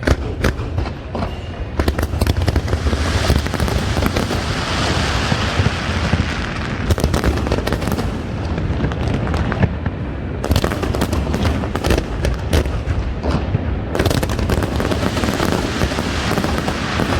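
Fireworks going off in quick succession: a dense string of sharp cracks and deep booms, with a thick crackling hiss through the first half.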